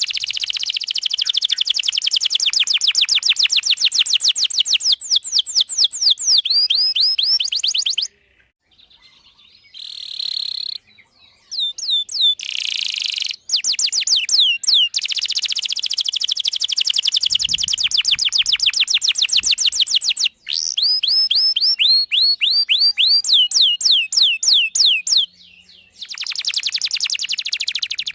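Domestic canary singing vigorously in long, rapid trills of repeated chirps, broken by two short pauses, about a third of the way in and near the end.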